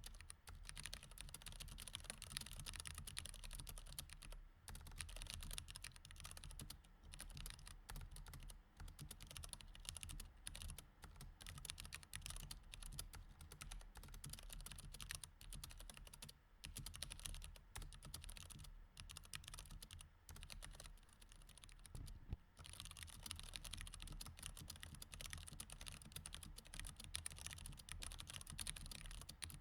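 Mechanical keyboard with Cherry MX Red switches being typed on: a fast, continuous run of faint key clicks, broken by a few brief pauses.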